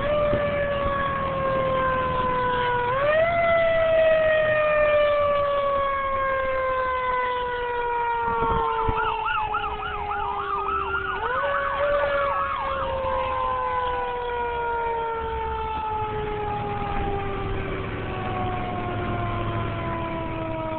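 Fire engine's siren sounding: the pitch climbs quickly and then slides slowly down over several seconds, like a mechanical siren winding up and coasting. It is wound up again about three seconds in and about eleven seconds in. From about nine to thirteen seconds a second, fast-warbling siren sounds briefly over it, with a low engine rumble beneath.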